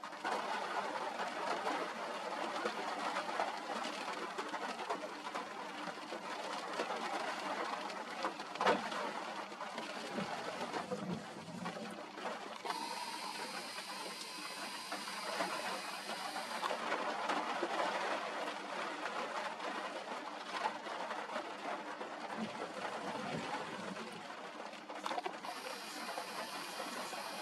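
Steady rain and wind noise on the microphone, with a sharp knock about nine seconds in and a brighter hiss for a few seconds in the middle and again near the end.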